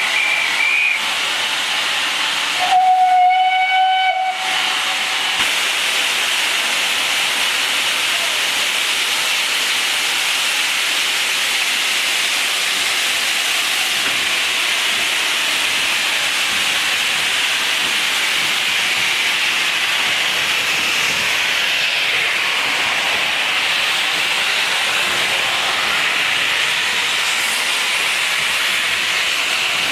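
Steam locomotive hissing steadily with escaping steam, with one short whistle blast of about a second and a half roughly three seconds in.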